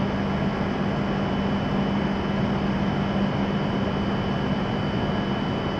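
Steady whirring hum of a stationary W7 series Shinkansen's onboard equipment and air-conditioning at the platform, with a low hum that drops away about three seconds in and a thin high whine throughout.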